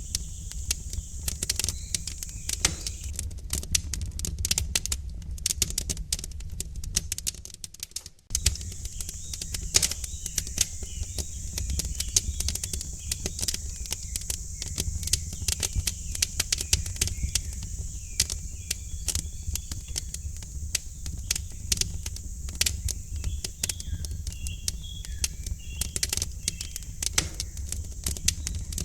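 Wood fire in a fireplace crackling with frequent sharp pops over a low rumble, with faint bird chirps now and then. The sound fades almost to nothing and comes straight back about eight seconds in.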